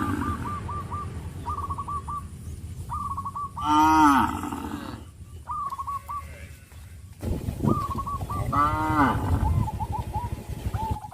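Cows mooing: two loud, long moos that fall in pitch, about four seconds in and again near nine seconds. Short, quick, high bird chirps repeat between the moos.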